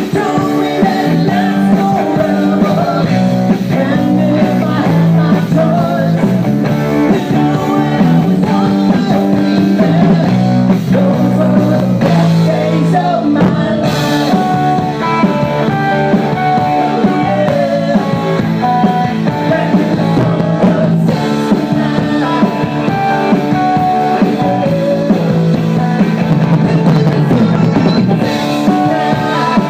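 Live rock band playing a guitar-led song, loud and steady throughout.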